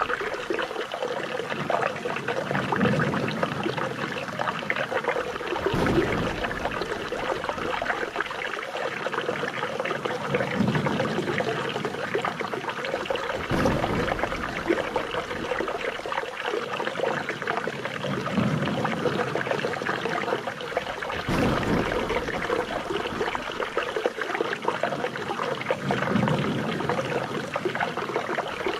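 Running water trickling and splashing steadily, a pattern that repeats about every eight seconds.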